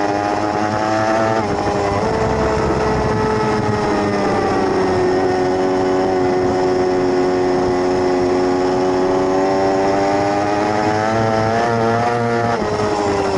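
600cc race motorcycle engine running at high revs. Its pitch steps down twice in the first two seconds as it shifts gear, then holds and climbs slowly, and drops again near the end.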